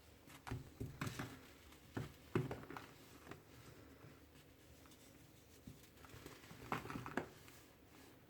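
Clumps of red-dyed baking soda with glitter crunching and crumbling, in soft crackly clusters about half a second in, around two seconds in, and again near the seven-second mark.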